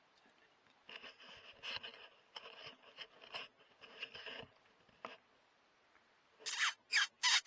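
A predator call blown or played close by, giving loud, high-pitched squeals in short bursts with wavering pitch, a distress sound meant to draw foxes in. It starts about two-thirds of the way in, after faint scratchy rustling.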